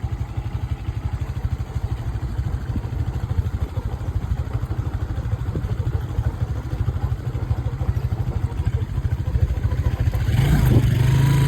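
Motorcycle engine running with a fast, steady low pulse. About ten seconds in it gets louder and its pitch rises a little as it speeds up.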